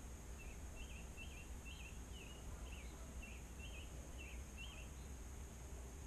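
A songbird singing a run of about ten short, quick chirped notes, roughly two a second, over a low steady rumble.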